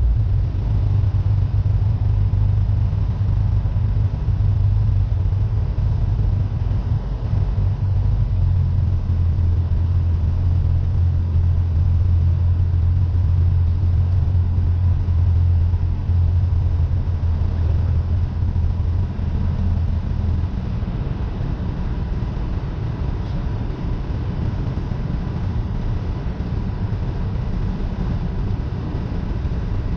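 Cessna 172N's four-cylinder Lycoming engine and propeller making a steady low drone in the cabin; the deep tone weakens about twenty seconds in.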